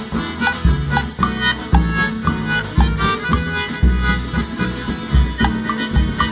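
Live instrumental Brazilian country (caipira) music: short melody notes over a steady, regular bass beat, with no singing.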